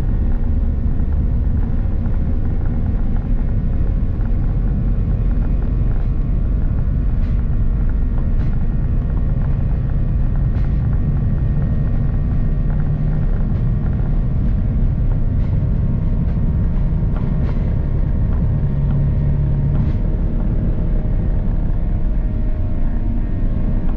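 Inside the cabin of a Boeing 737-800 in flight: a steady, loud low rumble from its CFM56 turbofan engines and airflow, with steady engine tones over it and a few faint ticks.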